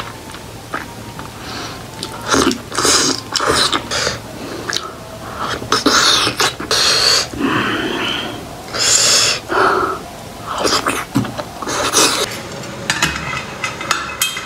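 Eating sounds: a person chewing and smacking their lips on steamed buffalo-meat momos dipped in spicy pickle sauce, in irregular bursts.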